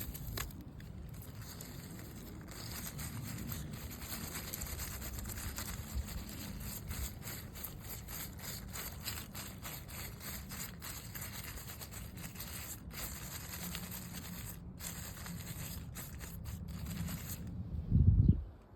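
Fingernails scratching a surface close to the microphone: continuous dense, crackly scraping. A loud low bump just before the end, after which the scratching stops.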